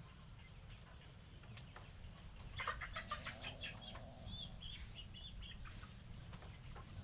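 A run of short, quick clucking calls from a bird, lasting about three seconds in the middle, over a steady low hum.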